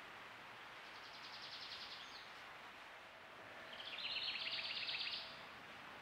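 A small songbird singing two rapid trills of evenly repeated high notes, a faint one about a second in and a louder one around four seconds in, over a steady hiss.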